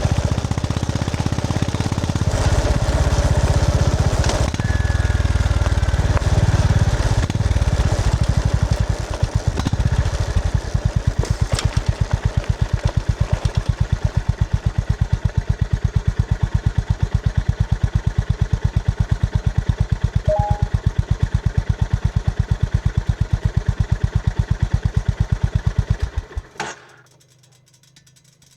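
Honda GB350S air-cooled single-cylinder engine pulling and changing speed, then settling into an even, thumping idle. It is switched off about 26 seconds in, with near silence after.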